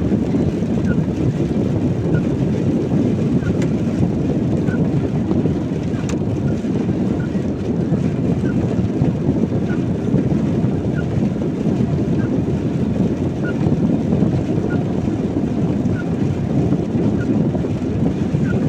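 Steady road and engine noise of a car driving on a wet road, heard from inside the cabin, with faint light ticks scattered through it.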